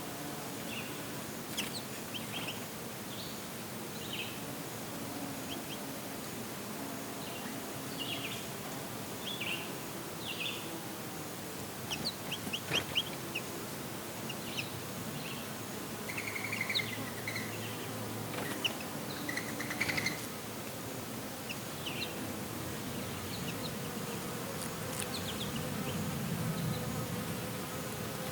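Summer back-yard ambience: bees buzzing around sunflowers, a close pass near the end, with small birds giving short scattered chirps over a faint steady breeze.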